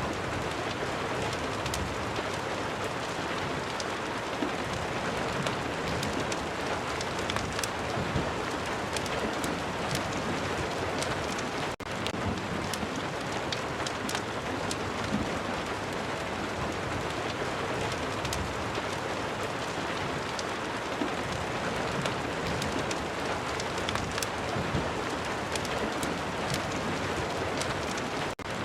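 Steady rain, with scattered sharp ticks through it. It dips out for a split second twice, about twelve seconds in and again near the end.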